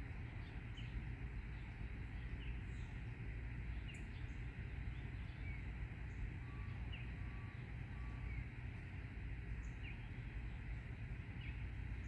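A bird giving short, sharp call notes about once a second, with three brief even notes in the middle, the repeated calls of an irritated bird. A steady low rumble runs underneath.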